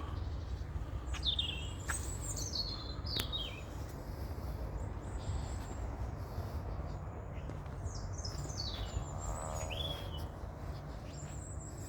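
Songbirds chirping: a few groups of quick, high notes that slide downward, over a steady low rumble.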